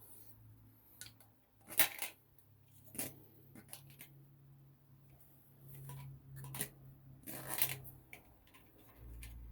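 A few scattered light clicks and clatters of small hard objects being handled, over a faint steady low hum.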